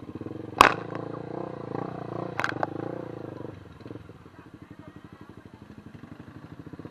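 Motorcycle engine running steadily, louder for the first few seconds and then easing off, with a sharp knock about half a second in and a couple of quick clicks about two and a half seconds in.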